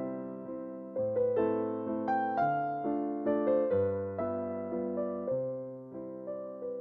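Background music: soft electric piano playing slow chords, each struck and left to fade.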